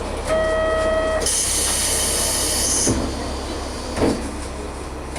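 Local train at a station: a steady electronic buzzer tone for about a second, then a loud burst of compressed-air hiss lasting about a second and a half, then two dull thumps, over the low rumble of the idling diesel railcar.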